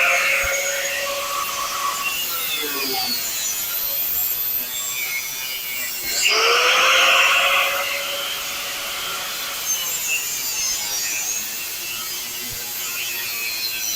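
A handheld power cutting tool cutting sheet metal of a car's quarter panel: it spins up with a rising whine, cuts with a harsh grinding hiss, then winds down slowly over a few seconds. This happens twice, about six seconds apart.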